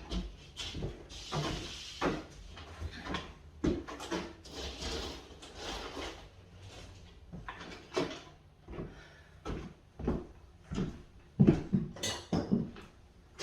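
Irregular knocks, clunks and short scraping rustles of building materials and tools being handled during drywall and wiring work, with a cluster of sharper knocks near the end.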